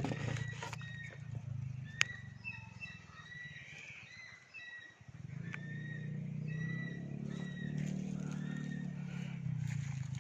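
Several wild birds chirping, short whistled notes repeating throughout, over a low steady hum, with one sharp click about two seconds in.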